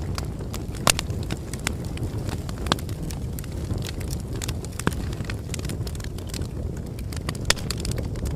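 Bonfire crackling: a steady low rumble of burning wood with frequent sharp pops and snaps, a few of them louder, about a second in, near the three-second mark and near the end.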